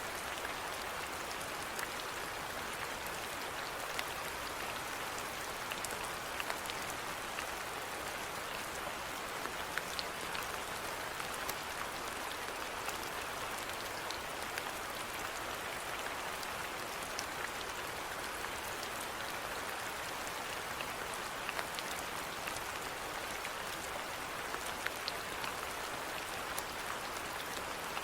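Steady rainfall: an even hiss of rain with individual drops ticking sharply here and there.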